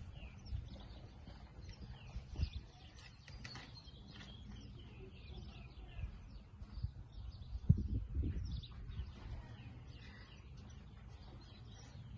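Small birds chirping in the background, many short calls throughout, with a few dull thumps, the loudest just before eight seconds in.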